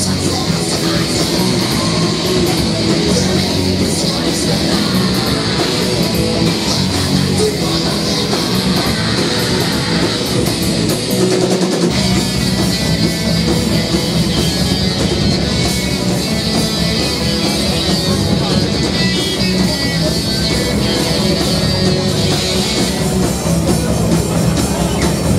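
Rock band playing live: electric guitar over a drum kit, loud and dense, with a brief break in the low end about halfway through.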